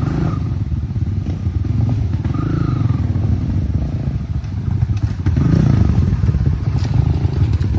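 Enduro motorcycle engines running and revving, the engine note rising and falling several times and loudest about two-thirds of the way through.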